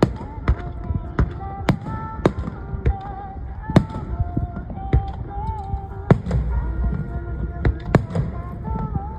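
Fireworks bursting in the sky, about a dozen sharp bangs at irregular intervals, over music playing with a held melody.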